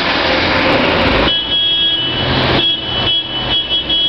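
Old vehicle engines running as vintage cars and motorcycles set off, loud and rough for about the first second, then dropping back to a lower rumble with a thin high steady tone over it.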